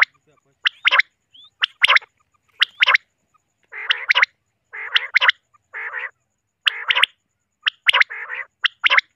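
Common quails calling: short, sharp paired notes repeated about once a second, joined from about four seconds in by harsher, rasping calls between them.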